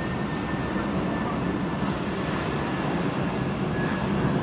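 Jet airliner engines heard at an airport: a steady rumble with a faint high whine held throughout.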